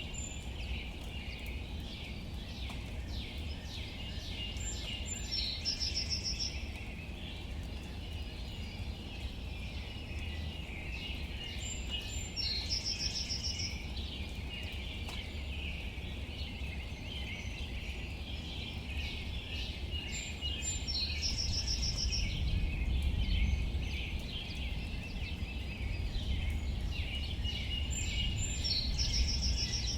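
Rain falling on leaves, a dense patter of drops over a steady low rumble. A bird sings a short high song four times, about every seven to eight seconds.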